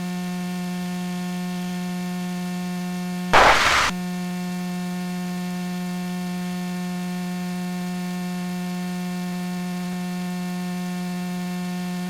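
Steady electrical hum in an aircraft's intercom or headset audio feed. About three seconds in, a loud burst of static lasts about half a second, like a radio squelch break.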